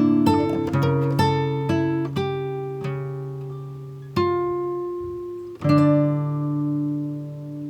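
Acoustic guitar music: a run of quickly plucked notes that slows and dies away, then a single note about four seconds in and a strummed chord near the end that rings on.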